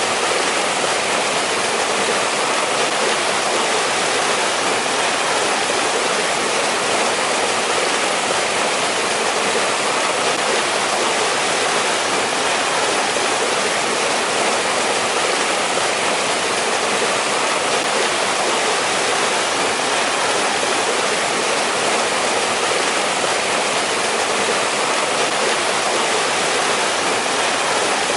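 Mountain stream rushing steadily over rocks in a winter valley, an even, unbroken flow of water.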